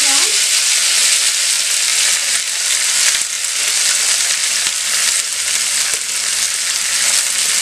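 Chopped radish leaves and radish sizzling in hot mustard oil in a kadhai: a loud, steady frying hiss just after the wet greens went into the oil.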